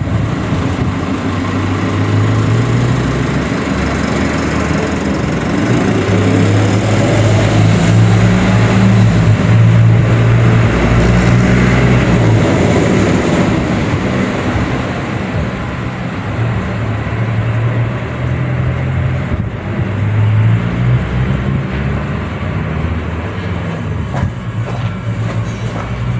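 Motor vehicle running while moving, its engine hum shifting in pitch several times over steady road and wind noise.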